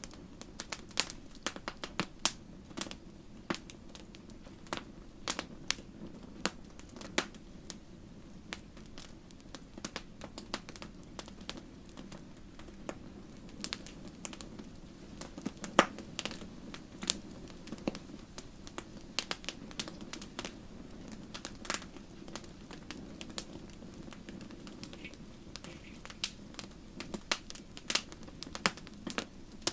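Campfire wood burning and crackling: irregular sharp pops and snaps, several a second with a louder pop about halfway, over a steady low rush of the flames.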